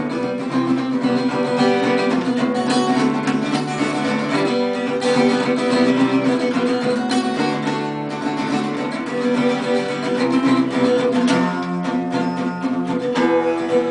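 Acoustic guitar strummed steadily through an instrumental break between verses, with sustained chords and no singing.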